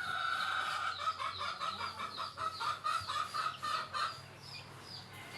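A bird calling: one long held note, then a run of quick, repeated notes for about three seconds before it stops.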